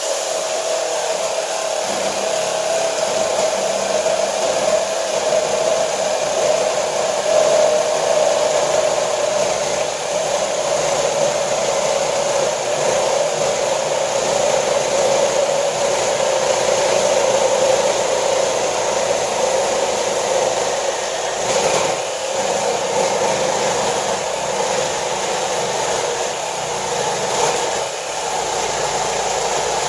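Cordless battery-powered saw running steadily under load through one long continuous cut, a constant motor whine over a hissing cutting noise.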